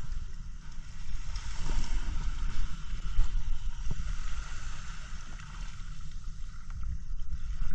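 Wind rumbling on the microphone over sea water splashing and lapping, with a few light knocks about two and four seconds in.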